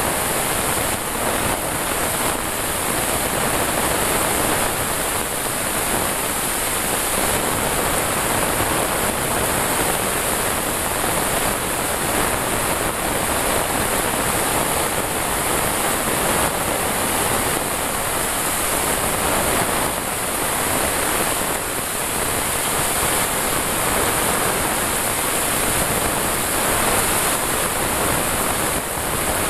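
Heavy rain pouring down, a steady dense hiss without a break.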